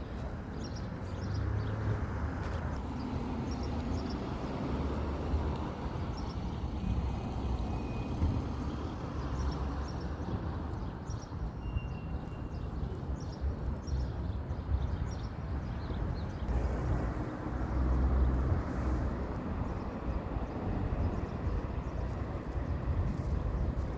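Outdoor ambience: wind rumbling unevenly on the microphone, with a few faint high bird chirps.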